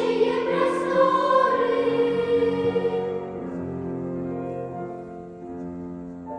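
Children's choir singing a long held phrase over instrumental accompaniment; the voices fade out about halfway through, leaving the accompaniment playing more quietly.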